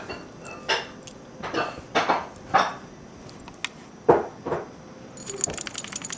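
A few irregular soft scuffs and crunches, then, about five seconds in, a spell of small metal pieces jingling and clinking.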